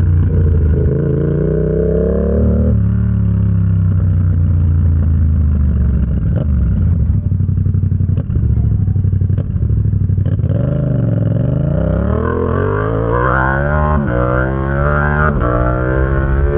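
Yamaha XSR700's 689 cc parallel-twin engine through an SC Project exhaust, revving up and dropping in pitch at a gear change about three seconds in. It runs steadier and lower through the middle, then pulls hard again with several rapid upshifts near the end, the revs climbing and snapping down between gears as the quickshifter changes up.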